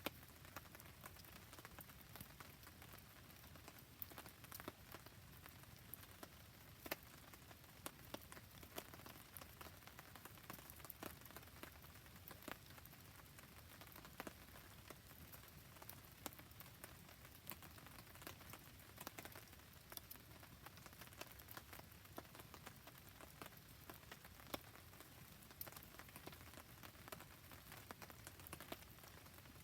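Faint rain falling around a crackling campfire: a soft steady hiss with frequent small sharp pops and ticks.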